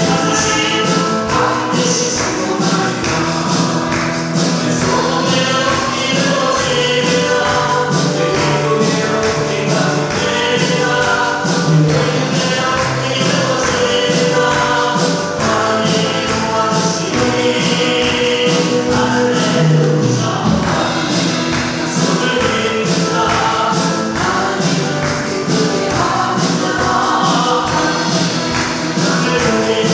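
Church praise team singing a gospel worship song in Korean as a choir, with instrumental accompaniment keeping a steady beat.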